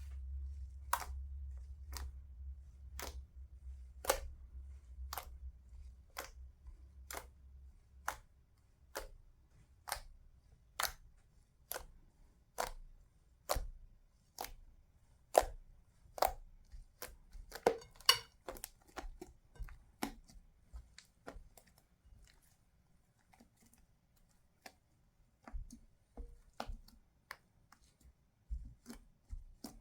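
A steady series of sharp clicks or taps, about one a second, with a quick flurry of clicks about two-thirds of the way through and a low hum under the first several seconds.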